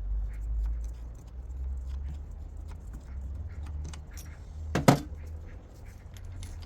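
Small metal parts clicking and clinking as they are handled, with one loud sharp metallic knock about five seconds in.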